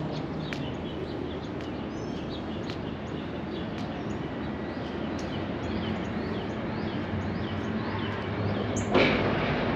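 Small birds chirping repeatedly in short high notes over a steady low outdoor hum. A louder sharp sound breaks in about nine seconds in.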